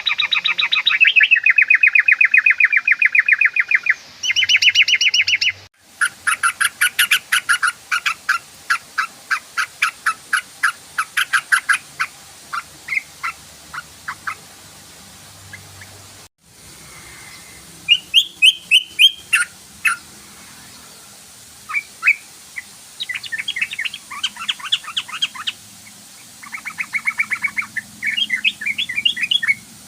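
Yellow-vented bulbul (trucukan) calling: rapid trains of sharp, chattering notes in several bursts with short pauses between them. The recording cuts off abruptly twice.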